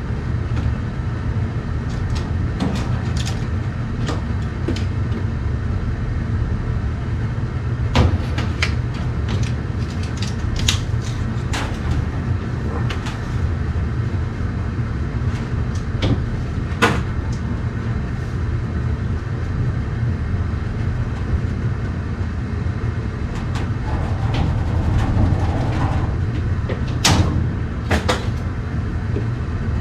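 Scattered sharp clicks and knocks over a steady low rumble, with louder knocks about eight seconds in, near the middle and near the end.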